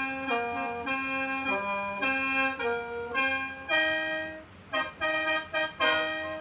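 Khaen, the bamboo free-reed mouth organ of Isan and Laos, playing a melody in chords of held reedy notes. The melody dips quiet about four seconds in, then goes on in a run of short, separated notes.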